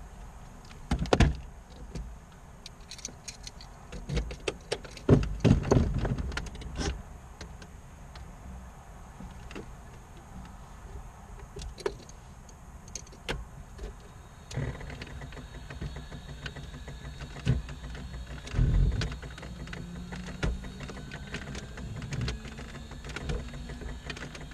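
Cockpit sounds in a Grumman Tiger before the engine is started. Scattered clicks and knocks from switches and handling come in the first seven seconds. About fifteen seconds in, a steady electrical hum with a faint, slowly rising whine comes on, as the aircraft's electrical systems are powered up.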